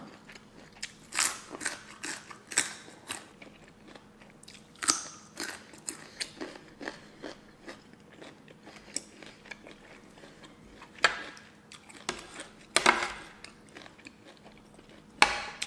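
Crisp crunching and chewing of a raw carrot stick, close up: a quick run of bites in the first few seconds, then sparser crunches, over a faint steady hum.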